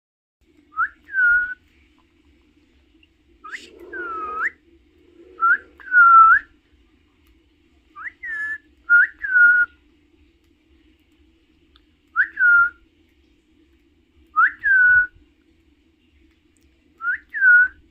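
Pet parrot whistling a repeated two-part phrase, a quick rising whistle and then a note that dips and levels off, about eight times with pauses of one to three seconds between.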